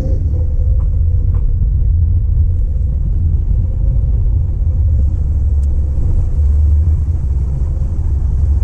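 A Mazda MX-5 NC Roadster's 2.0-litre four-cylinder engine, its tyres and the wind, heard from inside the moving car as a steady low rumble.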